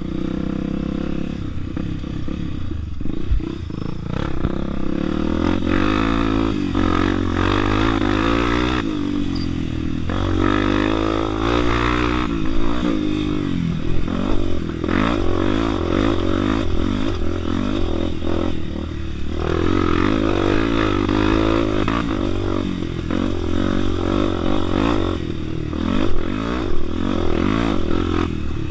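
Honda Tornado motorcycle engine running under way, its pitch rising and falling repeatedly as the throttle opens and closes.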